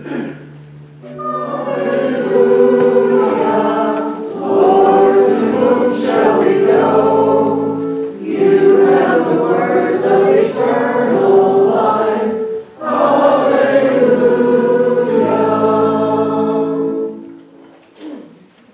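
Congregation singing the Gospel acclamation in four phrases, over sustained chords from an organ-like keyboard. The singing stops shortly before the end.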